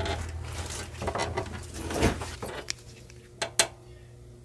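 Small hard pieces of jewelry and craft supplies clinking and rattling as they are handled and set down, ending with two sharp clicks.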